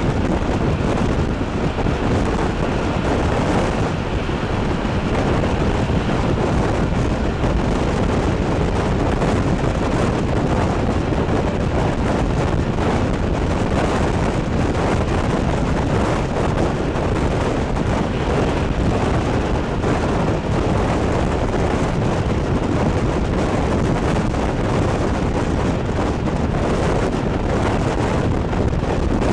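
Wind buffeting the microphone in a steady, loud rush over the low rumble of a moving train.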